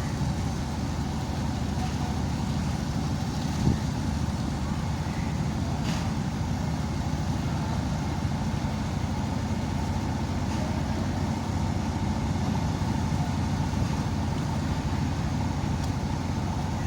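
Steady low engine rumble, with a single knock about four seconds in.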